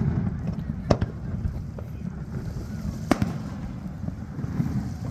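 Fireworks shells bursting: two sharp bangs about two seconds apart, each with a brief echoing tail, over a steady low rumble.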